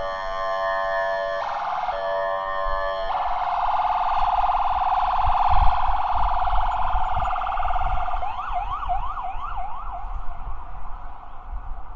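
Ambulance sirens: first a two-tone siren stepping between pitches. About three seconds in it gives way to another ambulance siren with a fast wobbling wail over a low vehicle rumble. About eight seconds in this siren switches to four quick rising sweeps, then fades.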